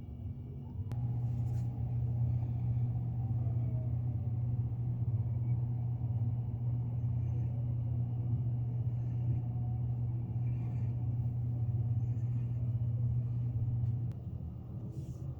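Steady low rumble, starting with a click about a second in and cutting off abruptly near the end.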